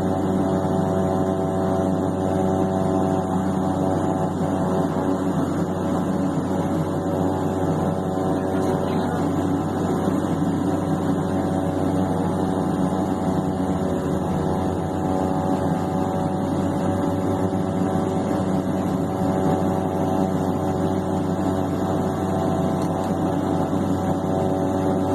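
King Air B200's Pratt & Whitney PT6A-42 turboprop engines running steadily at idle after start, a constant drone.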